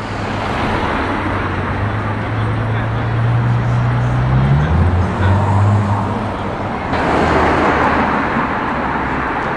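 Street traffic: a vehicle engine runs with a steady low hum that drops in pitch about halfway through. A louder rush of passing traffic swells about seven seconds in.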